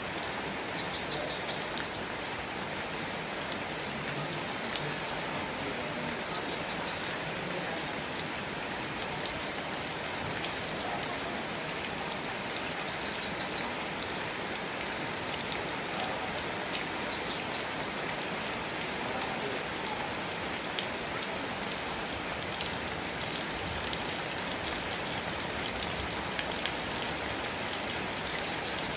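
Steady rain falling, with individual drops ticking now and then over the even hiss.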